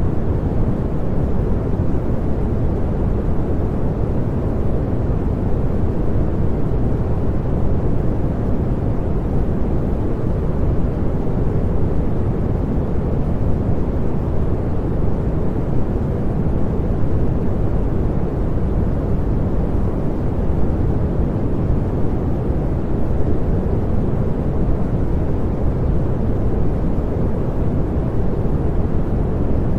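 Continuous synthetic pink noise: an even, unchanging rushing hiss weighted toward the low end.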